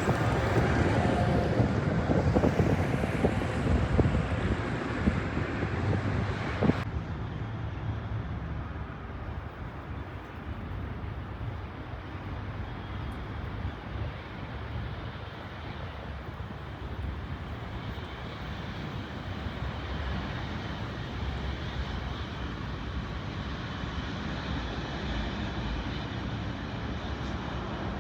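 Jet airliner engines heard outdoors as a steady rushing noise, with wind rumbling on the microphone in the first seconds. About seven seconds in the sound changes abruptly to a quieter, steady engine rush with a faint whine.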